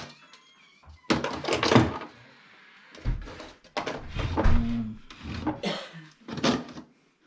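Knocks, thumps and clatter of objects being handled and set down.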